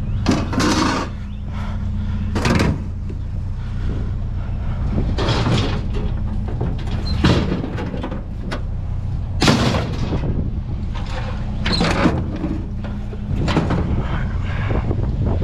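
Vehicle engine idling with a steady low hum, broken about every one to two seconds by short, loud knocks and scrapes.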